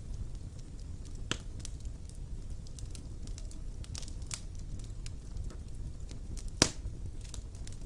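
Fire burning in a fireplace: a steady low rumble of flames with scattered crackles and pops. One sharp, loud pop comes late on.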